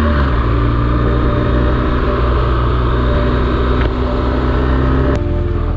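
BMW R1200GS flat-twin motorcycle engine running at a steady pitch while riding. The sound changes suddenly about five seconds in, like a cut to another shot.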